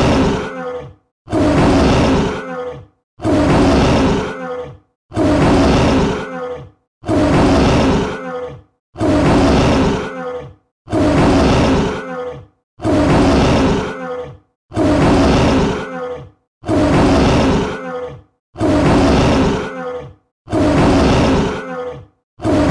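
Tiger roar sound effect looped: the same short, gruff roar repeats about every two seconds, each one cut off by a brief silence.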